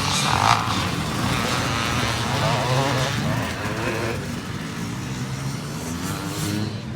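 Motocross bike engines running and revving, the pitch rising and falling over a steady low drone.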